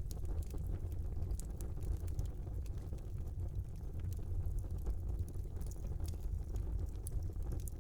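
Small wood fire burning in a fireplace: a steady low rumble of the flames with scattered faint crackles and pops.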